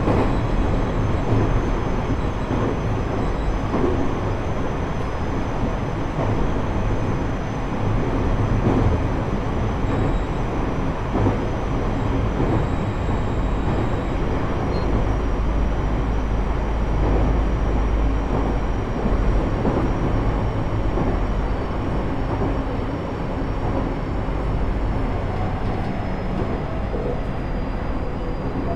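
Interior running noise of a JR East E127 series electric motor car at speed: a steady rumble of wheels on rail with a thin high gear whine whose pitch falls slowly over the second half. This car's gears carry an extra note a semitone above the usual minor-seventh whine, an abnormal gear noise.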